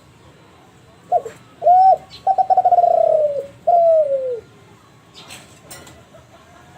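Kelantan spotted dove (derkuku) cooing one phrase. Two short notes are followed by a longer fluttering note and a final note that falls in pitch.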